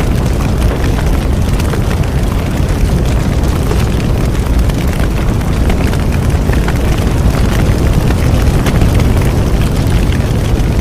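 Bonfire burning: a steady low rumble of flames with frequent crackles and pops from the burning wood.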